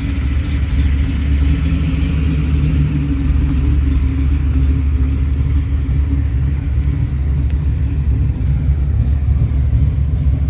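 Car engine running steadily at low revs with a deep, even rumble, not revving.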